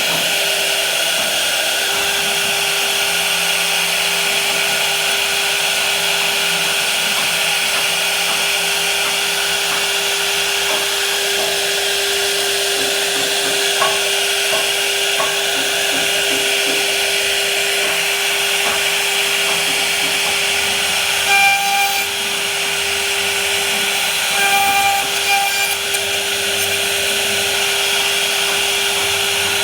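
A power tool working wood, its motor running steadily with a constant whine. The pitch changes briefly twice in the later part.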